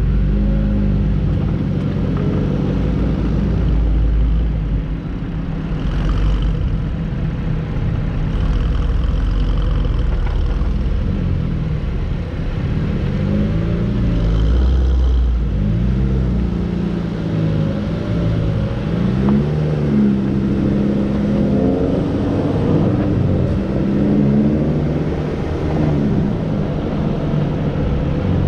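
Hyundai Elantra N's turbocharged 2.0-litre four-cylinder engine running hard on track, its note repeatedly climbing and dropping as the car accelerates, shifts and brakes.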